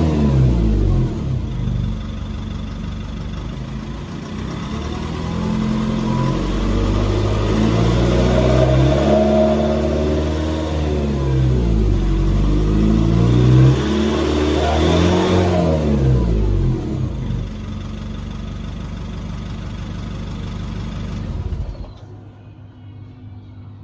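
Nissan Navara pickup's engine through a muffler-deleted exhaust with a free-flow tip, running on the road, its note rising and falling repeatedly as it accelerates and eases off. After about 17 seconds it settles to a steadier, lower note, and it drops much quieter near the end.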